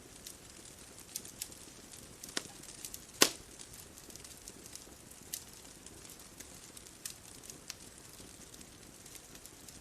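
Bonfire crackling: scattered sharp pops of burning wood, the loudest about three seconds in, over a soft steady hiss.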